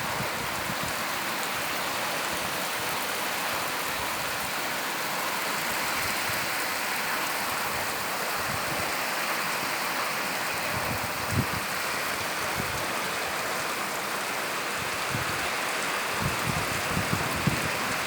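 Steady rain falling, an even hiss, with a few short low thumps scattered through it.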